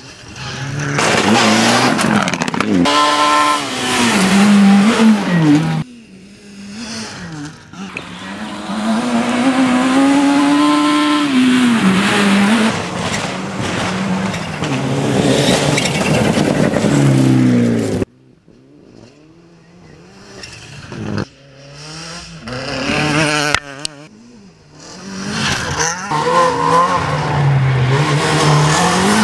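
Rally cars at full throttle on a gravel stage: engines rev up and drop sharply in pitch with each gear change as the cars pass. Several passes follow one another, each cut off abruptly, with short quieter gaps between them.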